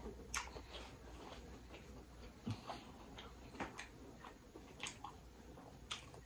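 Close-miked chewing: faint wet mouth clicks and lip smacks, about one a second, over a low steady hum.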